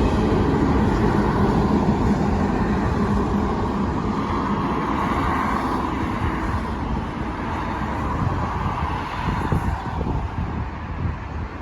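Steady rolling rumble of passing vehicles, easing off slightly toward the end.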